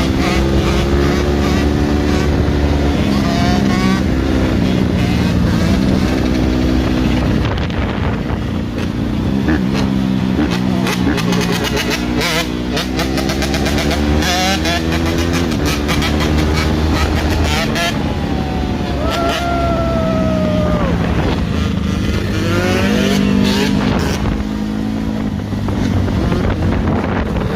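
Yamaha two-stroke dirt bike engines revving up and down again and again, the pitch climbing and dropping, with more than one bike running at once for much of the time.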